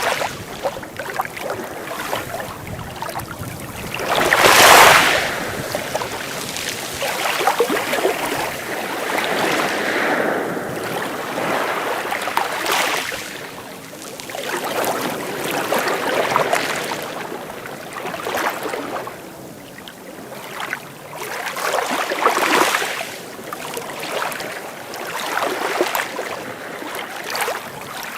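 Sea waves breaking and washing in, each wash a rush of noise that swells and fades every few seconds, the loudest about five seconds in.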